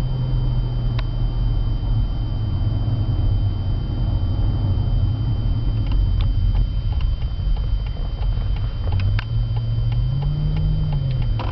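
Mercedes S600's twin-turbo V12, running on a Brabus ECU tune, as the car drives slowly: a steady low engine drone that rises briefly in pitch near the end, with a few light clicks.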